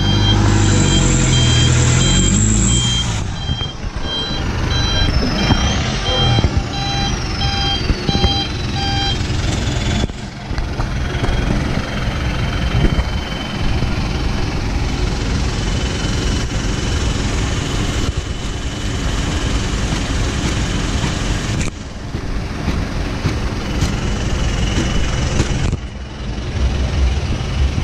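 Euro 4 truck engine running through an aftermarket racing muffler, loudest in the first three seconds, then a steady drone with a few brief drops. An electronic beeper sounds in short, evenly spaced beeps for the first nine seconds or so.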